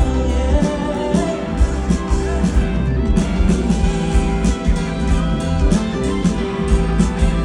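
Live pop-rock band music through a festival sound system: electric guitar, bass and drums playing on, mostly instrumental, just after the singer's last line.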